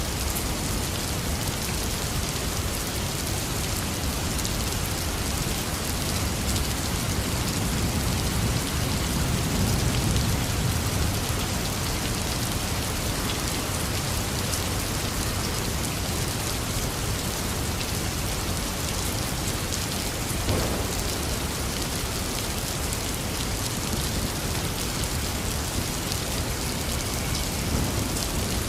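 Heavy rain falling steadily. A low rumble of thunder swells and fades about nine to eleven seconds in, and a brief sharp sound comes about twenty seconds in.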